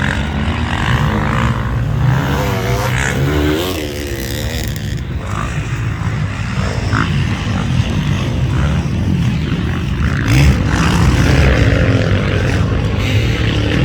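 Motocross bike engine running hard, its revs rising and falling repeatedly, getting louder about ten seconds in.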